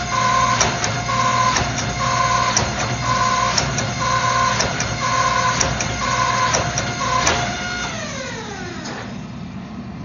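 A machine running with a regular pulsing beat, about one and a half cycles a second, then winding down with a falling pitch about eight seconds in.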